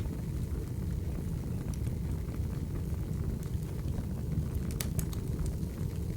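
Wood fire burning: a steady low rumble with scattered sharp crackles and pops, a little cluster of them just before five seconds in.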